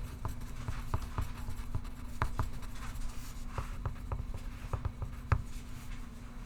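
Pencil writing on paper: a run of short scratchy strokes and light taps, the sharpest about two seconds in and again just after five seconds, over a steady low room hum.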